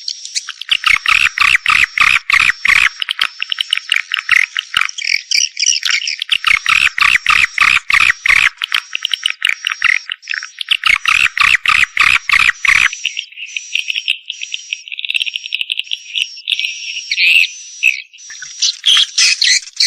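Swiftlet call track: dense, rapid twittering and clicking chatter of many swiftlets, the mating-type lure call played in swiftlet houses to attract birds. A thin, steady high tone runs underneath. About two-thirds of the way through, the clicking thins out.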